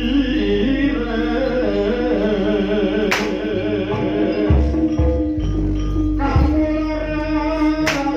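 Live Javanese jaranan gamelan accompaniment: held tones under a wavering sung or piped melody line. Two sharp cracks cut through it, one about three seconds in and one near the end.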